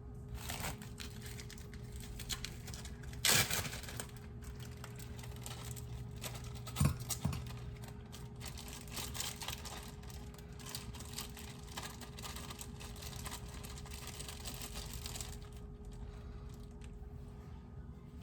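Frozen sofrito cubes dropped into hot oil in a pan, sizzling steadily with a few knocks as they go in, easing off near the end. A steady hum runs underneath.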